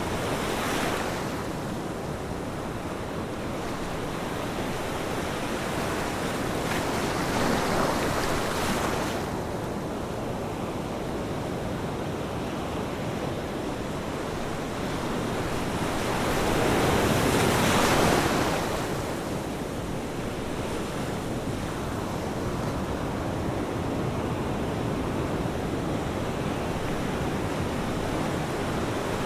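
Ocean surf: a continuous wash of waves with three swells as waves break, one right at the start, one about a quarter of the way in, and the loudest a little past the middle.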